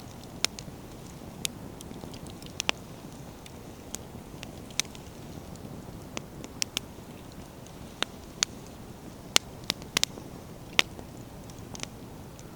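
Wood campfire burning: a steady low rush of flames with irregular sharp crackles and pops as the firewood snaps, a cluster of louder pops in the second half.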